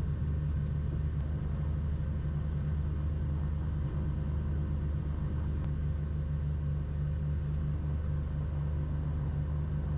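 Cessna 340's twin piston engines running at low power after touchdown, heard from the cockpit as a steady, even low drone.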